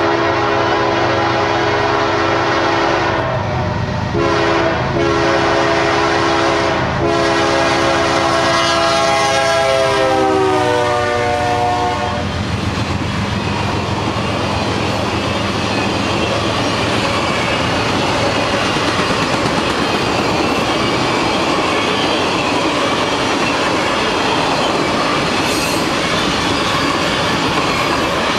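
Diesel locomotive's air horn sounding in several long blasts as the train approaches, its chord dropping in pitch as the locomotive passes about ten seconds in. Then the long string of passenger cars rolls by with a steady rumble and the wheels clicking over rail joints.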